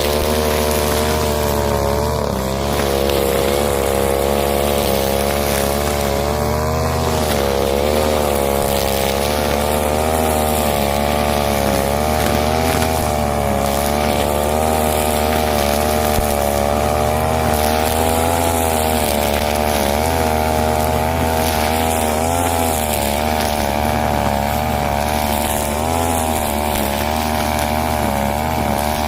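Husqvarna 541 two-stroke brush cutter running at high revs while clearing orchard undergrowth, its pitch wavering up and down as the load changes.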